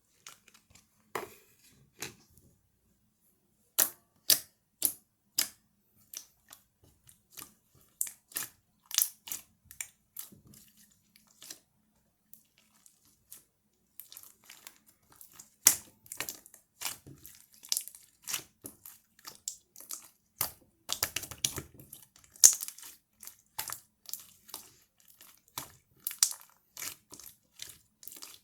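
Hands pressing, poking and stretching a clay-topped slime, making sharp, irregular clicking and popping sounds as air pockets burst. The clicks are sparse at first and come thick and fast from about halfway on.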